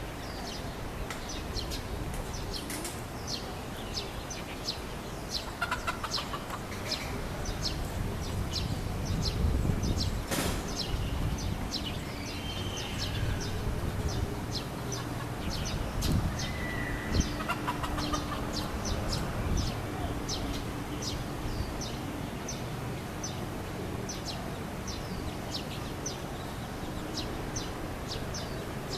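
Domestic chickens clucking now and then, over a constant patter of short, high ticks and chirps and a low background rumble.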